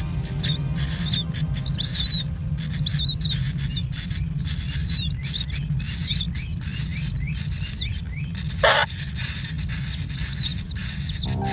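Bird chicks chirping, many quick high-pitched chirps overlapping without a break, over a steady low rumble. One brief sweep rises sharply about three-quarters of the way in.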